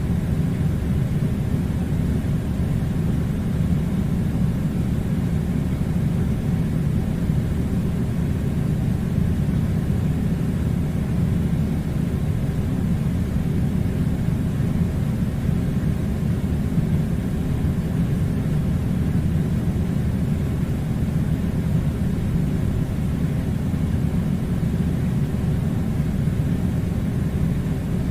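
Steady low rumbling noise, unchanging and without breaks or distinct events.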